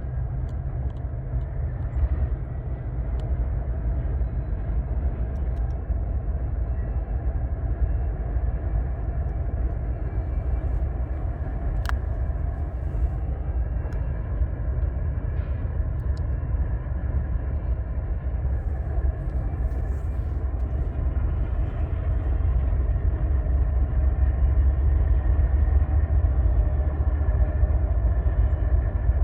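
Long freight train of loaded container well cars rolling by, a steady low rumble that grows a little louder over the last several seconds.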